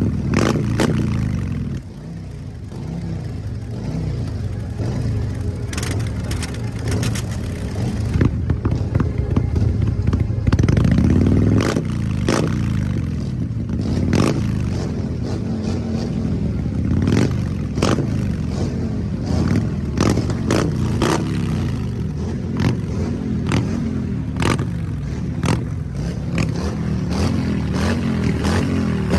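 Harley-Davidson V-twin motorcycle engine revving up and down repeatedly, with many sharp cracks throughout.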